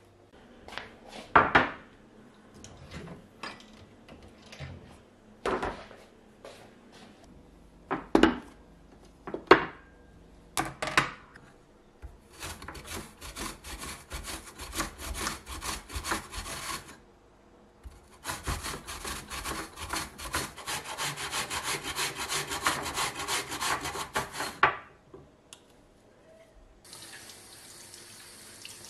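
A few sharp knocks and clatters, then two long runs of rapid rhythmic scraping strokes, like rubbing or scrubbing a hard surface. Near the end a tap starts running.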